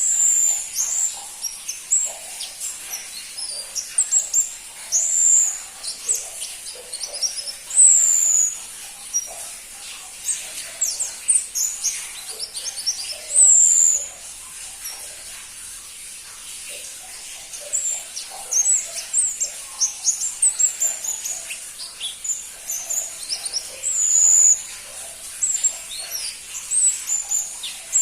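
Pentis pelangi (crimson-breasted flowerpecker) singing: a busy run of short, very high chirps and quick downslurred whistles, with a brief lull about halfway through.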